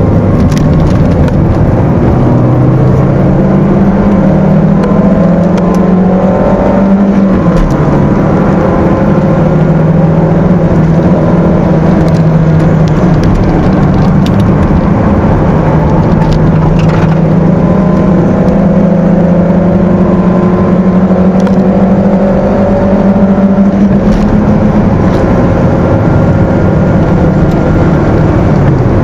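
Stock 1.6-litre four-cylinder engine of a Peugeot 206, heard from inside the cabin at race pace. The revs climb for the first several seconds and drop sharply about seven seconds in. They then hold and rise again before falling away near the end, over steady road noise.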